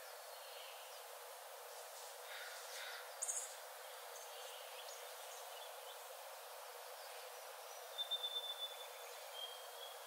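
Forest birds calling over a steady hiss: a few scattered chirps, a short high burst about three seconds in, and a quick run of about six notes at one pitch near the end.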